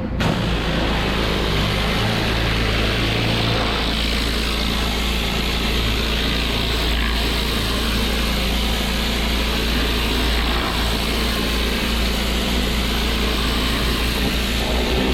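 Pressure washer engine running steadily under load, with the hiss of the high-pressure water spray.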